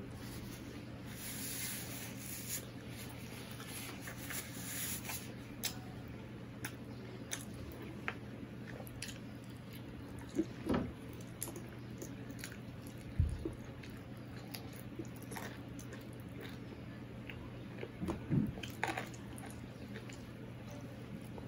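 Close-up eating sounds: chewing and wet mouth smacks on chicken curry and rice, with fingers squishing and picking food on a steel plate, a few louder smacks and a single low thump partway through. A steady low hum runs underneath.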